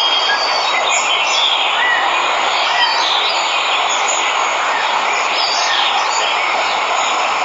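Steady rushing of a waterfall, with small birds chirping now and then over the noise of the water.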